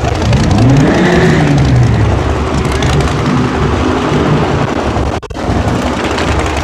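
A car engine revved once, its pitch climbing for about a second and then falling back, over a steady low rumble.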